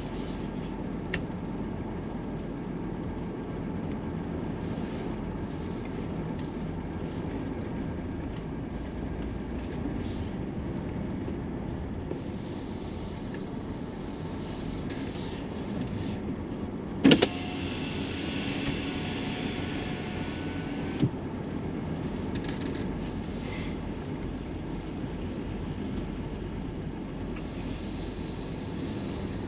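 Steady engine and road noise of a camper van driving, heard from inside the cabin. A sharp knock comes about seventeen seconds in, followed by a few seconds of brighter hiss, and a smaller knock comes about four seconds later.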